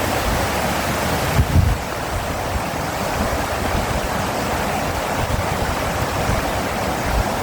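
Steady rush of fast-flowing water from a stream or waterfall, with low wind buffets on the microphone about a second and a half in and again near the end.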